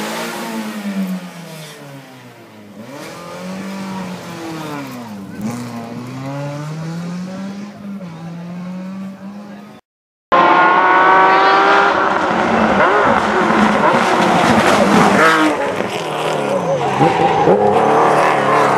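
Rally car engines revving hard and dropping in pitch again and again through gear changes as the cars pass. The sound cuts off for a moment about ten seconds in and comes back louder and closer, still revving.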